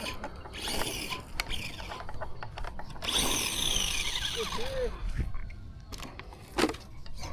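Traxxas Slash RC truck running, its electric motor whining and falling in pitch about three to five seconds in, with scattered clicks from the drivetrain.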